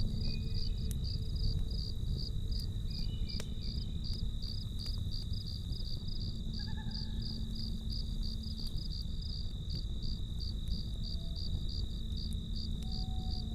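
Crickets chirping in a steady, evenly pulsed rhythm over a continuous high trill, above the low rumble of a campfire with a few sharp crackles.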